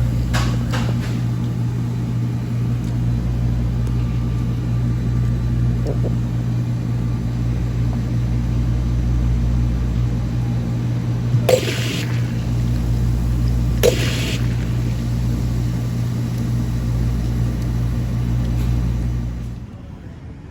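Steady low rumble of a car heard from inside the cabin while driving, with two short hissing sounds about eleven and fourteen seconds in. The rumble cuts off near the end.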